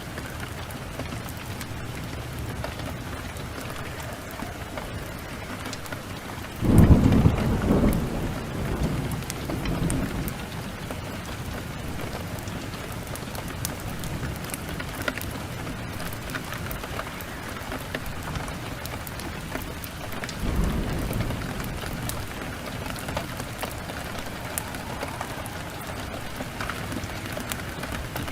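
Steady rain with scattered sharp ticks, broken by a loud thunderclap about seven seconds in that rolls on for about three seconds, and a softer roll of thunder about twenty seconds in.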